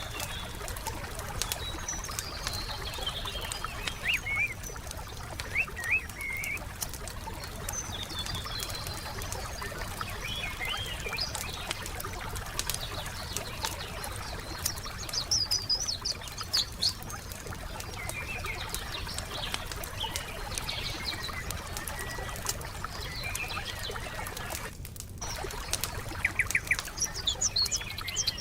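Wood fire crackling steadily with frequent small pops, while songbirds call in short bright chirping phrases, loudest near the start, the middle and the end.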